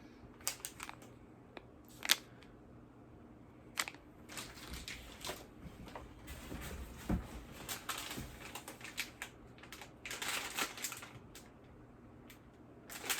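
Small items and plastic packaging being handled: scattered clicks and taps, with a burst of crinkly rustling about ten seconds in.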